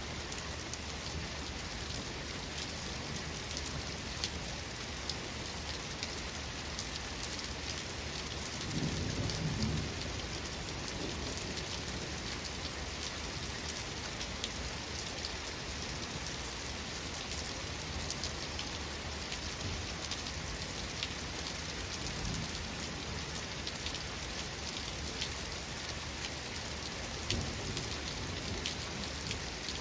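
Steady rain falling, with scattered drops ticking on a surface, and distant thunder rumbling low about nine seconds in, with a fainter rumble later.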